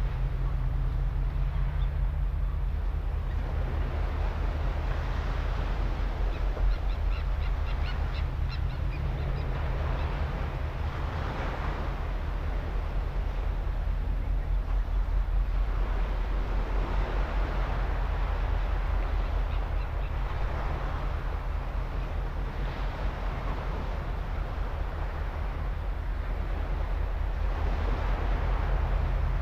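A large seabird colony on a rock wall calling together: a dense, continuous chorus of calls that swells and fades, over a steady low rumble.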